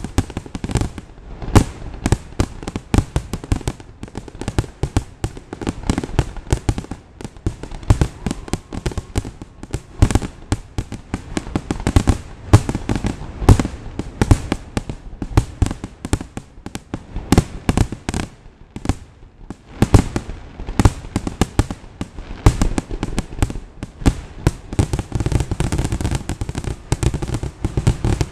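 Aerial fireworks display: a dense, irregular string of booms from shell bursts, often several a second, with crackle between them.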